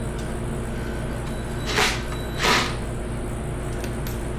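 Two brief scraping, rattling noises of hand tools working on the engine's bolts, a little under a second apart around the middle, over a steady low hum.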